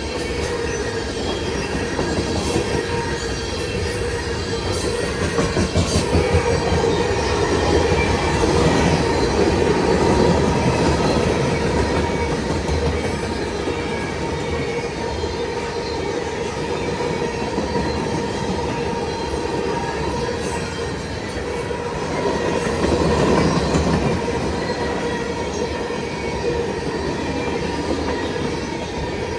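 Freight cars of a long CN mixed freight train rolling past on jointed track, with wheels clacking and a steady, high squeal of wheels on the rails.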